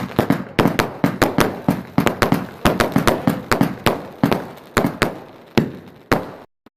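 A multi-shot firework going off in a rapid, uneven string of sharp bangs, about four a second. It stops suddenly near the end.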